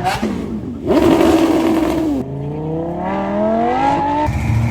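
High-performance car engines revving in a series of abruptly cut clips: a rev that falls away, a loud burst that cuts off suddenly, then one rising rev of about two seconds, and a switch to a steady low engine note near the end.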